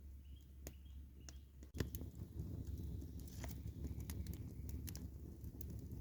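Wood campfire crackling, with irregular sharp pops and snaps over a low steady rumble that gets louder about two seconds in.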